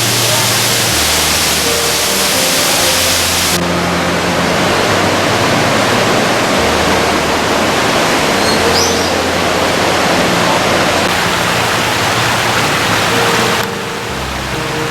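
Steady loud rush of a waterfall, Jeongbang Falls pouring down onto the seashore, its texture changing abruptly about three and a half seconds in and again near the end. Soft sustained music notes sit low underneath.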